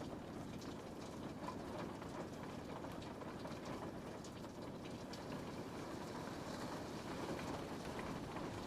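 Steady rain on a window: an even wash of rainfall, with many small, sharp drop ticks scattered through it.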